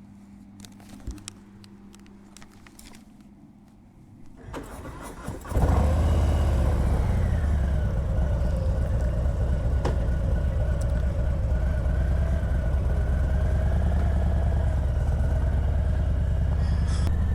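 A few light clicks, then the Harley-Davidson Heritage's V-twin engine is cranked and catches about five and a half seconds in, and settles into a steady, loud idle.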